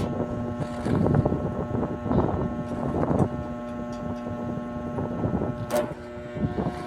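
A steady mechanical hum with wind buffeting the microphone.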